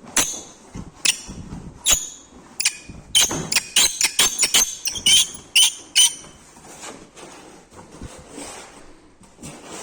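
A seized Hyundai Sonata NF engine, ruined by being run without oil, gives a run of sharp metallic creaks and squeaks like a creaking swing. The creaks come faster around three to five seconds in and stop after about six seconds.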